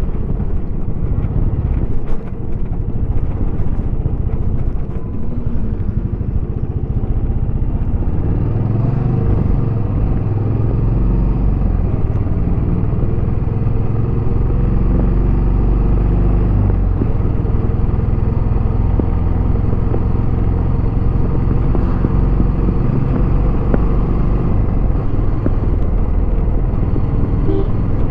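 Royal Enfield Bullet 350X's single-cylinder engine running through its stock exhaust at a steady, even beat while the motorcycle is ridden.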